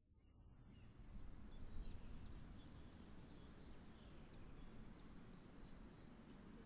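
Small birds chirping and tweeting over a faint, steady low rumble, fading in at the start.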